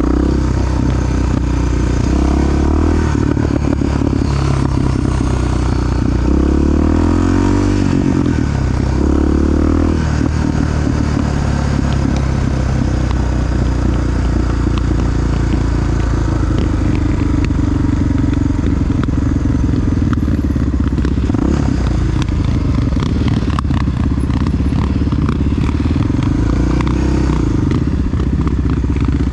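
Honda XR-series big four-stroke single-cylinder dual-sport motorcycle running on the road, its engine note steady for most of the time. The engine speed swings up and down a few times between about six and ten seconds in.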